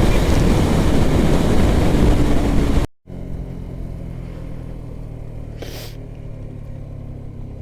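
Yamaha R15M motorcycle riding at speed, with loud engine and wind noise, until an abrupt cut about three seconds in; after it the bike's single-cylinder engine runs steadily at low revs and much quieter, with one brief hiss midway.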